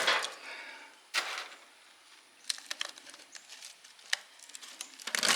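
Copper coil windings being pried and pulled out of an electric motor's stator, with scattered scrapes, clinks and one sharp knock about a second in.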